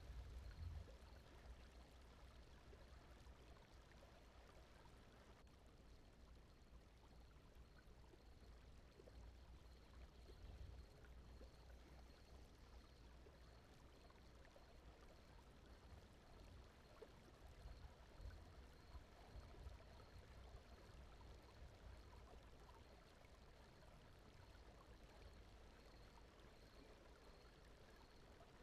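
Very faint, steady brown noise used as a sleep aid: an even hiss weighted toward a low rumble.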